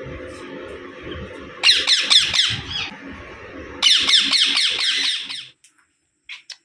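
Indian ringneck parrot (rose-ringed parakeet) screeching in two bursts of rapid, harsh repeated calls, the second longer, the cry of an angry, agitated bird. A steady low background hum runs under them and cuts off suddenly after the second burst.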